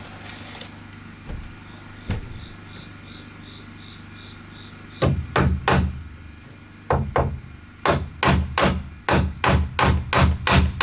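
Hammer striking wood in quick repeated blows as the bunk bed frame is built: a couple of light knocks early, then a few groups of strikes about halfway through, settling into a steady pace of about three blows a second near the end.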